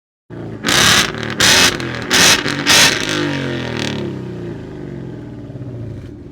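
A sports car engine revved hard four times in quick succession, each a loud burst, then its note falling in pitch and fading away.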